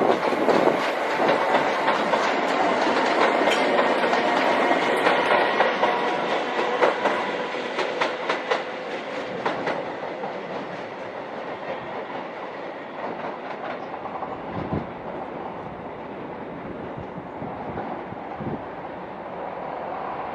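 A train moving through the station, its wheels clattering over the rail joints; the sound is loudest for the first several seconds and then eases off as it fades away.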